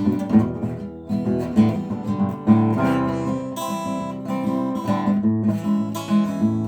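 Acoustic guitar strummed, an instrumental passage between sung lines of a song.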